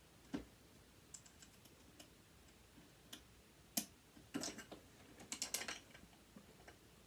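Light clicks and taps of a hand tool and small metal parts as a sewing machine motor is being taken apart and its hex screws worked loose. There are scattered single clicks, then two quick clusters of rattling clicks past the middle.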